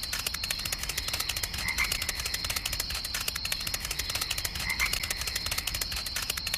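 Small electric motor of a DIY miniature tractor running steadily, with a fast, even clicking rattle and a thin high whine.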